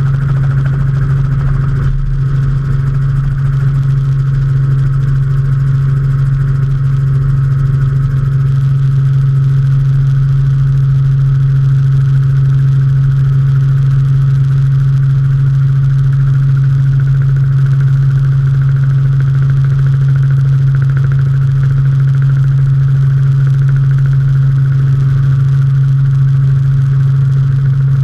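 Robinson R44 helicopter in steady flight: its six-cylinder Lycoming piston engine and rotors make a loud, unbroken drone with a strong low hum, heard from aboard the aircraft.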